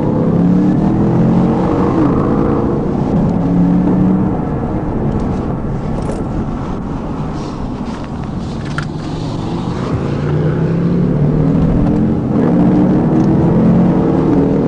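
Police patrol car's engine and road noise at pursuit speed. The engine note climbs, eases off in the middle, then climbs again as the car accelerates.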